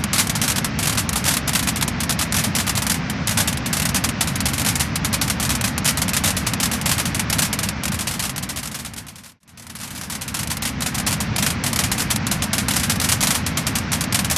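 Wood fire crackling and popping, a dense run of sharp crackles over a steady low rush of burning. About nine seconds in the sound fades out almost to nothing and straight back in, as at the seam of a looped recording.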